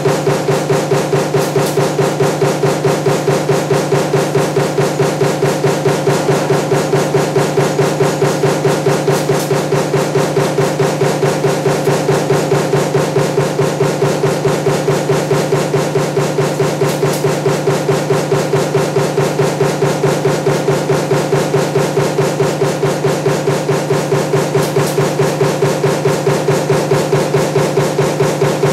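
Punch press running a stamping die for table fan motor parts, hitting in a fast, even rhythm of about five strokes a second over a steady machine hum.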